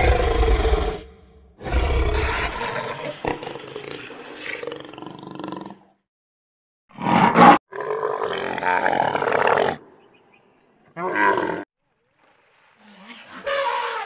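A deep, rumbling dinosaur roar sound effect that fades out over several seconds. After a brief silence comes a camel's loud, harsh grumbling call lasting a few seconds, then two short animal calls near the end.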